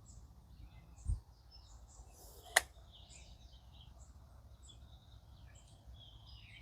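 Small birds chirping with many short, high calls over a steady low rumble. A dull thump comes about a second in, and a sharp click, the loudest sound, about two and a half seconds in.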